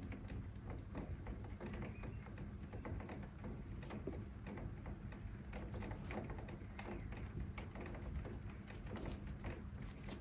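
Society finches moving about their cage: scattered light taps and clicks with a few short high chirps, over a steady low hum.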